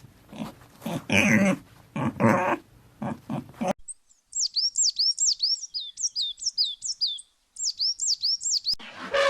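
A dog barking in several short, rough bursts. After a brief silence, a small songbird chirps quickly, about three or four high slurred notes a second, with one short pause.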